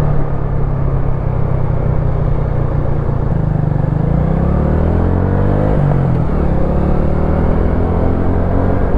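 Wolf Classic 125cc motorcycle engine running under way, heard from on the bike: steady at first, then rising in pitch as it accelerates from about three and a half seconds in, dropping near six seconds as it shifts up, then running steady again.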